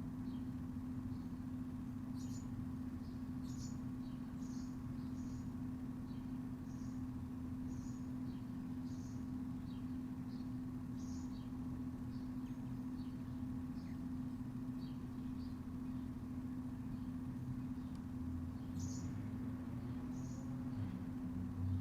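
Backyard ambience: a steady low mechanical hum, with short high chirps of small birds scattered throughout.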